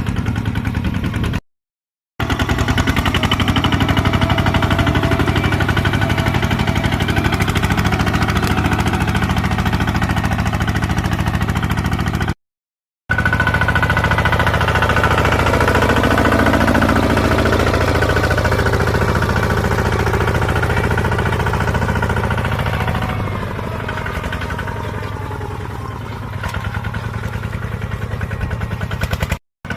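Small Kubota tractor's engine running steadily under load while pulling a plough, with a rapid even firing beat. The sound cuts out completely for a moment twice, and it runs a little quieter for a few seconds in the second half.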